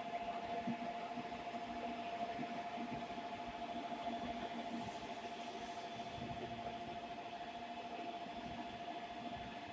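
Steady hum and hiss of a railway station platform, with a constant high tone under it and no train passing.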